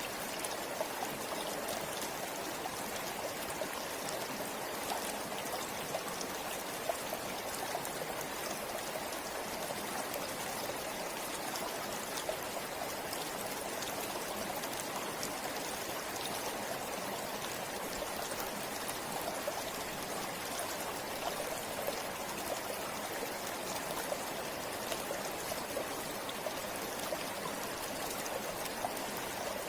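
Forest river flowing steadily over rocks, a continuous rushing with small splashing and trickling clicks.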